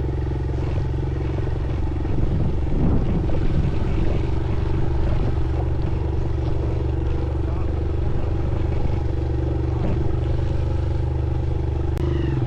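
Motorcycle engine running steadily while riding, turning louder and rougher for a few seconds about two seconds in.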